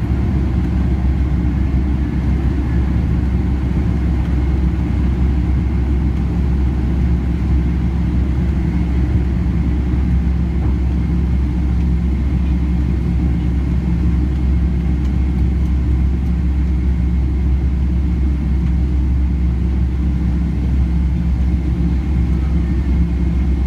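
Jet engines and airflow of a Boeing 767-300 heard inside the passenger cabin as a steady low rumble, with a faint steady high whine above it.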